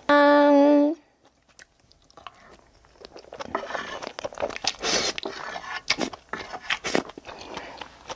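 A loud, steady tone lasts about a second, then cuts off. After a short hush, a person bites and chews food close to the microphone, with crisp crunching and wet clicks through the rest.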